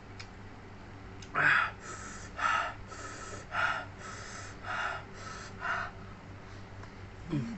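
A person breathing hard through the mouth, five loud breaths about a second apart, the panting of someone with a mouth burning from chili-hot food. A short hum-like vocal sound follows near the end.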